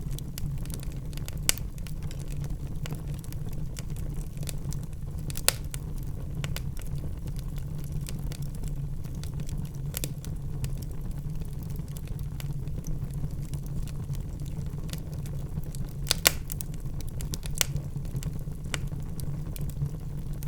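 Wood fire burning in a fireplace: a steady low rumble of flames with scattered sharp crackles and pops from the burning logs. The loudest is a quick pair of pops about three-quarters of the way through.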